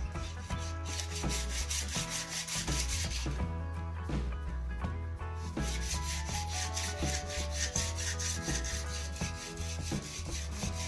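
Sandpaper rubbing along a wooden snooker cue shaft in quick back-and-forth strokes, pausing briefly about four seconds in.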